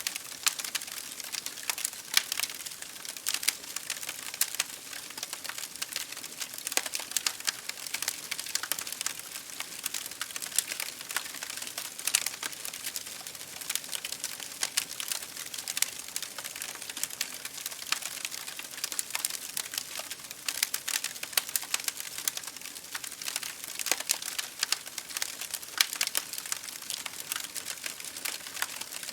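Wood fire crackling in a fireplace: dense small crackles with frequent sharper pops, over a soft hiss of rain against a window.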